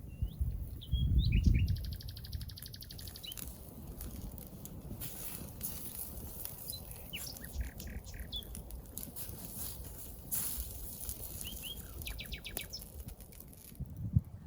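Small forest birds calling: short whistled chirps and two fast trills, one about two seconds in and one near the end. There is a dull low thump about a second in, the loudest sound, and a few scattered light clicks.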